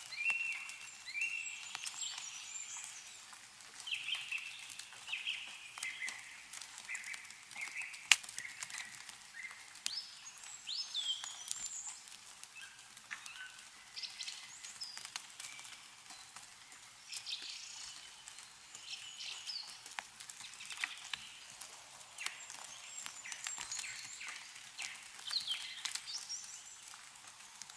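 Several small birds chirping and calling over and over, with scattered light drips and ticks of melting snow falling from trees, one sharp tick about eight seconds in.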